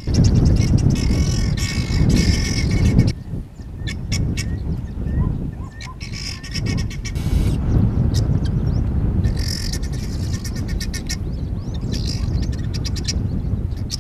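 Birds chirping and twittering in several short bouts over a loud, low rumbling noise that is heaviest in the first three seconds.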